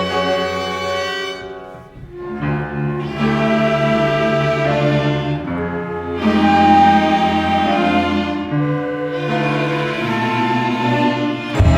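Orchestral music with bowed strings, violins and cellos playing sustained chords that shift every second or two. It dips briefly about two seconds in, and a louder, sharper entry comes near the end.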